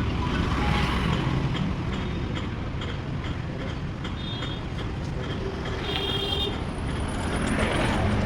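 Engines running in road traffic, a steady low rumble, with a short vehicle horn toot about six seconds in and a fainter one about four seconds in.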